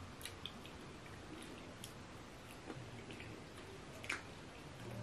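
Faint eating by hand: soft wet chewing of eba (cassava dough) with egusi soup, with scattered small mouth clicks and smacks, the sharpest about four seconds in.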